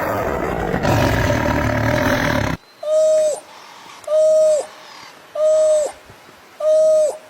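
A rough, roar-like animal call that cuts off abruptly about two and a half seconds in, followed by four short, clear animal calls at one steady pitch, each ending with a slight drop, repeating about every second and a quarter.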